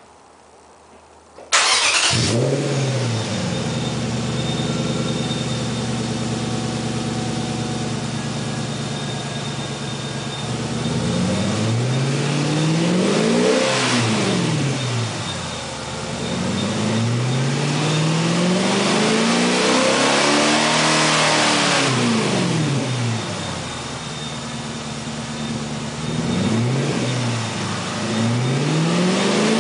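2006 Infiniti M45's 4.5-litre V8 breathing through an Element 114 aftermarket exhaust, starting up about a second and a half in and settling to a steady idle. It is then revved several times in place: quick blips, one longer, slower rev that rises and falls, and more blips near the end.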